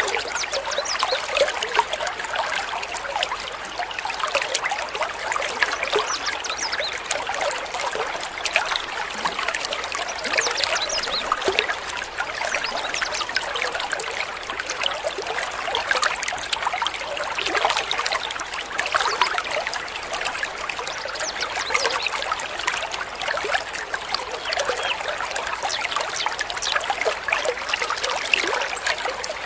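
Water trickling and babbling steadily, as a small stream over stones.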